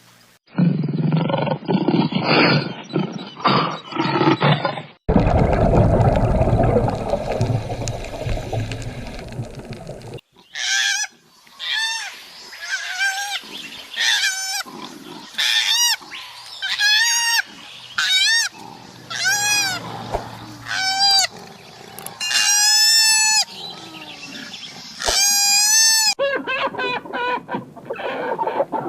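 A string of different animal calls, cut one after another: rough pulsed grunting sounds, then a dense low roar-like noise, then a run of short, high, arching calls repeated about once a second.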